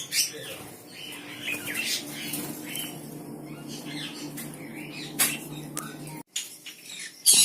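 Caged birds squawking and chirping in short scattered calls, with sharp loud squawks about five seconds in and near the end, over a steady low hum that cuts off suddenly about six seconds in.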